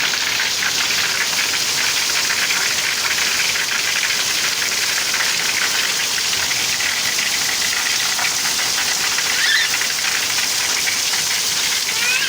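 Heavy rain falling steadily: an even hiss with dense patter of drops.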